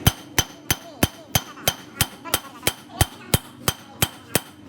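Hammer striking metal in a steady rhythm, about three blows a second, each with a short ringing tone.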